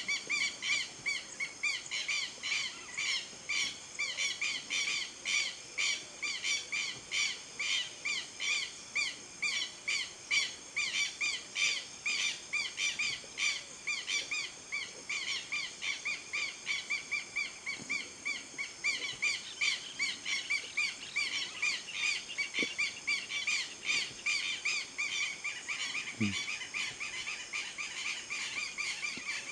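An animal calling one short, high note over and over, about four times a second, in an unbroken steady rhythm that stops suddenly near the end.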